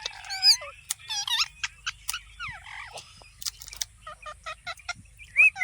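Parrot calling: bending whistles and squawks, then a quick string of short chirps, ending with a rising whistle.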